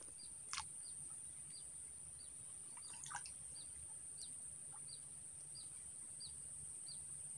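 A small bird calling: short, high chirps that flick downward, repeated evenly about three times every two seconds. A steady high-pitched whine sits underneath.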